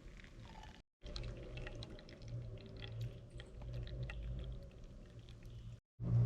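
Hot water pouring from a Nanbu cast-iron kettle, with scattered small ticks and two brief gaps of silence.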